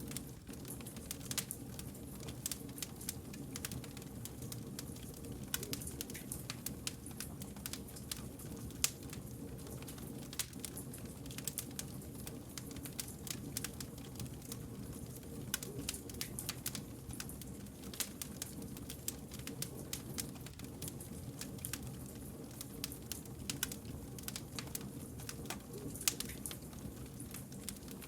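Wood fire crackling: frequent sharp pops and snaps, irregularly spaced, over a steady low hum from the burning logs.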